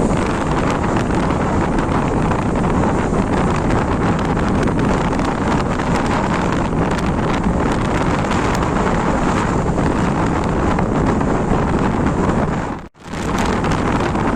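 Steady, loud rushing roar of airliner cabin noise, engines and airflow, during a landing in typhoon-force winds. It cuts out abruptly for a split second near the end, then resumes.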